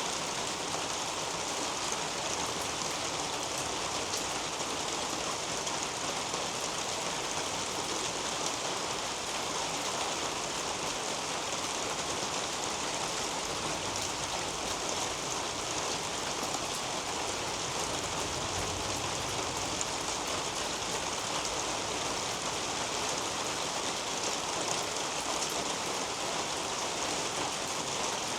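Steady rain falling on a leafy garden canopy: an even hiss with fine ticks of individual drops, unchanging throughout.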